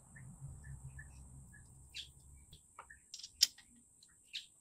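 Faint bird chirps, short and high, over a low rumble in the first half. A few sharp metallic clicks and taps from hand work on the exhaust fasteners come later, the loudest about three and a half seconds in.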